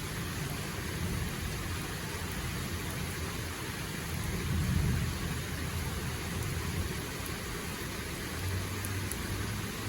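Steady rain falling, an even hiss, with a low rumble that swells around the middle. Near the end a low steady hum comes in underneath.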